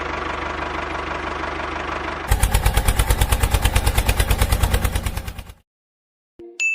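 An engine running steadily, then chugging louder at about nine beats a second before fading out about five and a half seconds in; a short chime sounds near the end.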